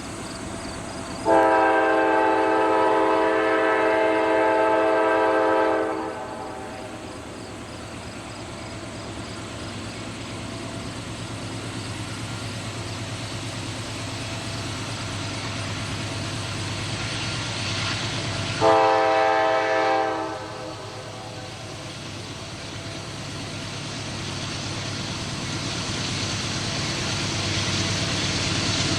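Diesel locomotive air horn sounding a long blast of about five seconds, then a shorter blast of about two seconds some seventeen seconds later. Between and after the blasts the train's rumble grows steadily louder as it approaches.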